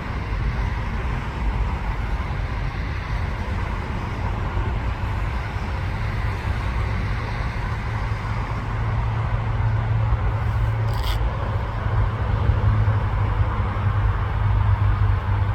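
Steady low rumble of a freight train at close range, with a deep hum that grows stronger about two-thirds of the way in. A single short sharp click a little after that.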